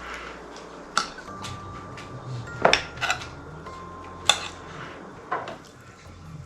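Kitchen utensils clinking and tapping against dishes: several sharp, irregularly spaced clinks.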